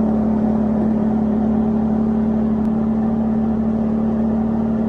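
An engine running steadily at an even speed, with a strong, unchanging hum.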